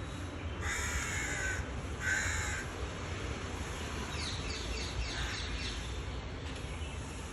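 Two loud, harsh calls, then a quick run of short, falling chirps.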